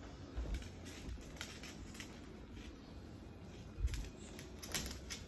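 Moluccan cockatoo playing with a toy under a blanket: scattered soft clicks and rustles, with a louder knock about four seconds in and another near the end.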